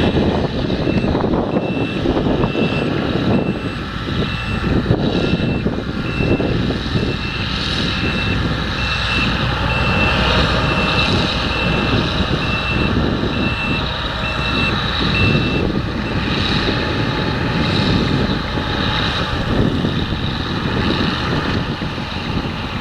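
A reversing alarm beeps at an even pace, one steady pitch, for about the first fifteen seconds and then stops, over the loud, steady running of heavy farm machinery.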